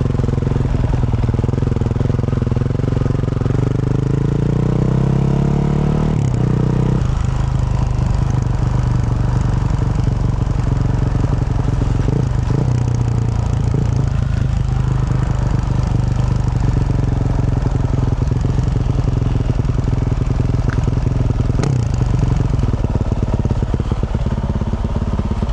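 2024 Yamaha YZ450F's single-cylinder four-stroke engine through a Yoshimura RS-12 exhaust, under way. The revs climb steadily for about six seconds, drop sharply with a shift, then the engine runs at a fairly steady throttle.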